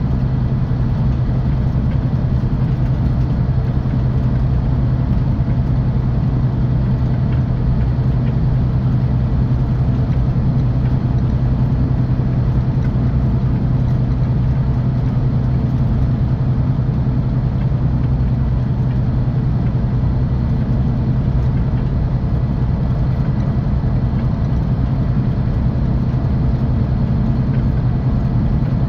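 Scania OmniExpress 360 coach heard from inside while under way: its 13-litre six-cylinder diesel running at a steady engine speed under a low, even drone, with road and tyre noise.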